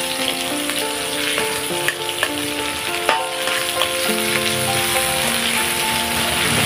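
Ground chili paste and shrimp paste sizzling in hot oil in an aluminium wok, stirred with a metal spatula that scrapes and clicks against the pan a few times. Soft background music with held notes plays underneath.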